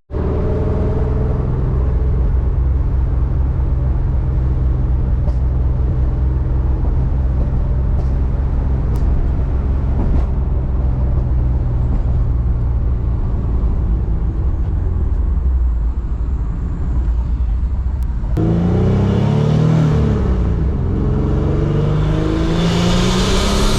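Car engine running with a steady low drone, then from about three-quarters of the way through it revs, its pitch rising and falling, and swells into a louder rush near the end.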